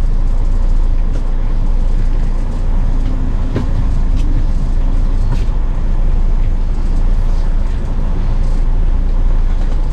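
Semi truck's diesel engine running, a steady low rumble with a few faint clicks.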